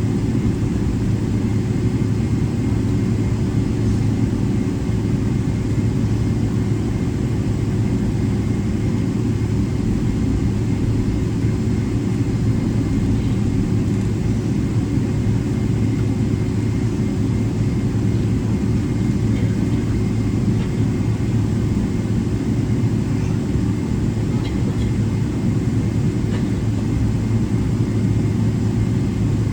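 Cabin noise of a Boeing 777-300ER taxiing, heard from a window seat: the GE90-115B engines at idle and the rolling airframe give a steady low rumble, with a few steady hums and a faint high whine.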